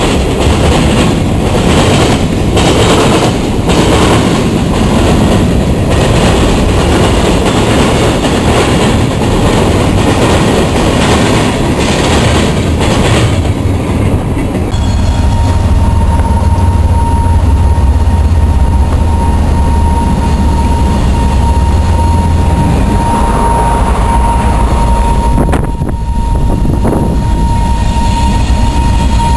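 Freight cars rolling past at close range, the wheels clattering over the rail joints in a steady rhythm about once a second. After the last car passes, about halfway through, a single steady high whine carries on over a low rumble.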